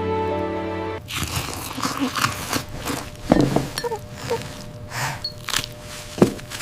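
Soft background music stops abruptly about a second in, followed by a run of irregular crunching sounds.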